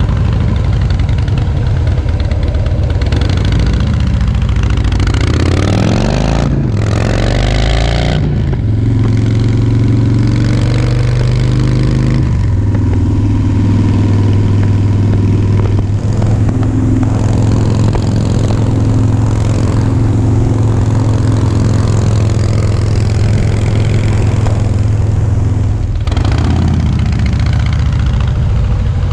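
Harley-Davidson Softail Breakout's V-twin engine running through a Vance & Hines aftermarket exhaust while riding. The pitch climbs over the first several seconds with two short breaks about six and eight seconds in, then holds steady at cruising speed, changing again near the end.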